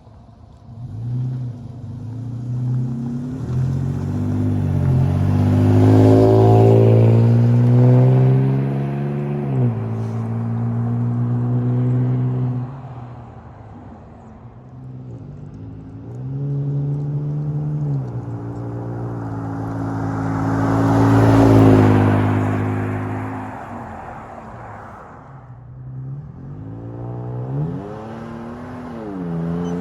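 Exhaust of a 2019 Toyota Tacoma TRD Off-Road through a Flowmaster 40 Series muffler welded into the stock 2.5-inch piping. The engine revs up and drops back several times under acceleration, and it is loudest about two-thirds of the way through.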